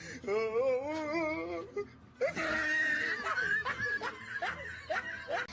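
People laughing: a warbling laugh, then after a cut about two seconds in, more laughter and short voice sounds over a hiss.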